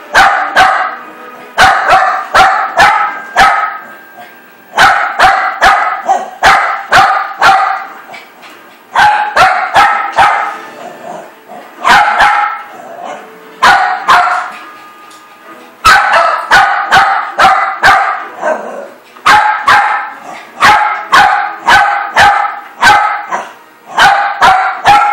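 A dog barking repeatedly, in runs of four to six quick, sharp barks with short pauses between the runs.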